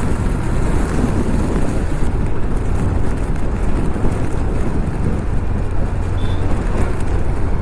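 Kawasaki Z900's inline-four engine running steadily while riding, mixed with wind rush on the microphone.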